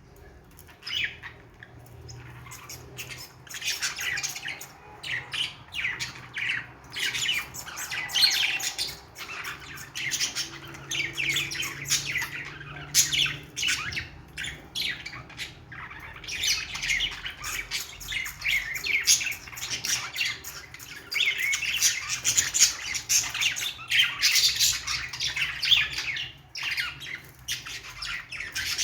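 Budgerigar chatter: a fast, continuous stream of short squawks and chirps, starting faintly about a second in and then going on with rising and falling loudness.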